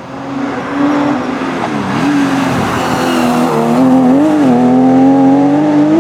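Historic Porsche racing car's engine running hard at high revs. Its note dips and recovers about two seconds in, wavers again about four seconds in, then climbs steadily as the car accelerates.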